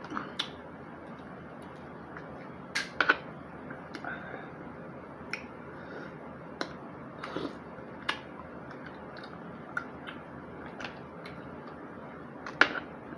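Eating mussels: scattered sharp clicks and small smacks from shells and mouth, about one a second, over a steady low hiss, with the loudest clicks about three seconds in and near the end.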